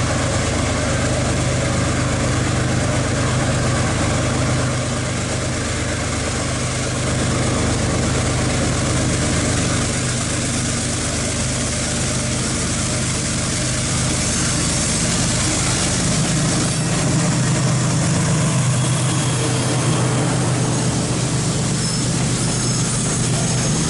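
Diesel freight locomotive engine idling steadily, a constant low hum with no revving.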